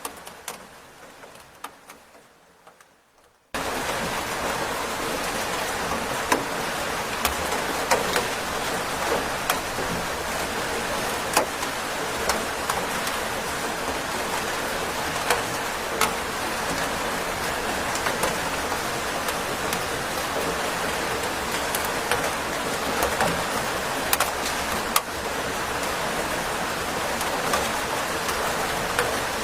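Steady rain with scattered sharp drop hits. For the first few seconds the rain is faint and fading, then about three and a half seconds in it jumps suddenly to full level.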